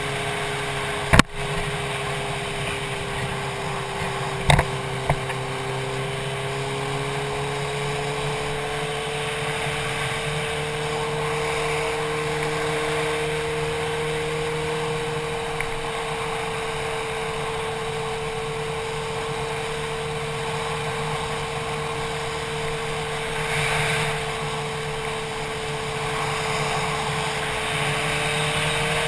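Motorcycle engine running at a steady cruise under rushing wind noise on a helmet-mounted camera; the engine note rises slightly, then holds. Two sharp clicks, about a second in and about four and a half seconds in.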